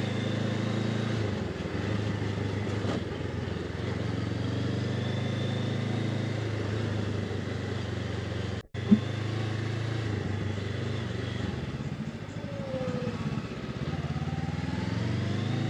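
Honda CB500X parallel-twin engine running steadily under way, with a brief dropout and a sharp click about nine seconds in and the revs shifting a little near the end.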